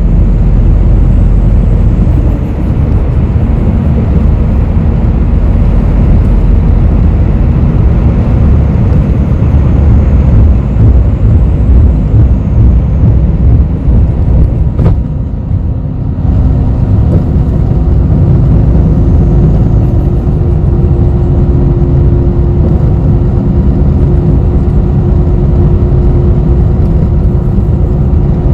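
Inside a moving bus: a loud, steady low rumble of engine and road noise. About halfway through there is one sharp click and the level dips briefly, after which a steady engine hum carries on under the rumble.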